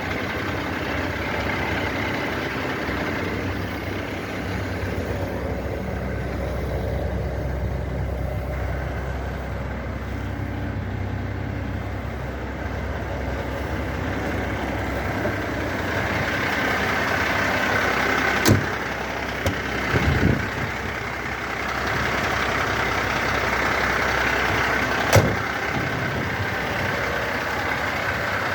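Renault Midlum 270dCi fire truck's diesel engine running steadily, likely at idle, a little louder in the second half. Sharp knocks cut in twice and come as a short cluster in between.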